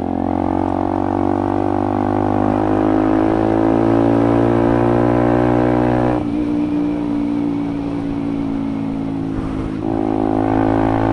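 Motorcycle engine running under way, its note climbing slowly as it pulls. About six seconds in the throttle is eased off and the note drops and quietens, then it picks up again near the end.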